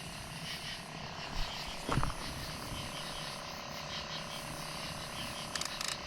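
Night chorus of frogs and insects: a steady, rapidly pulsing chirping over a constant hum. A single thump about two seconds in and a quick run of clicks near the end.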